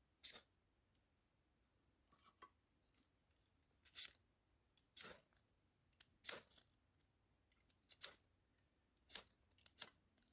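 Ferro rod sparker scraped hard about eight times in short, sharp strokes, throwing sparks into dryer lint to light a fire, with several quick strokes close together near the end. The lint has not yet caught.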